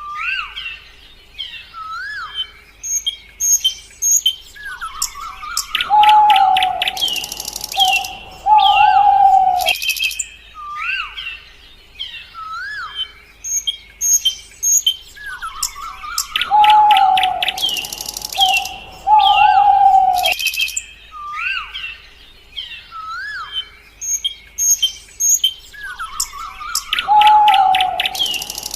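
Songbirds chirping and whistling, with many short rising and falling calls and quick trills, and a longer, lower call every so often. The same stretch of about ten seconds repeats about three times, as a loop.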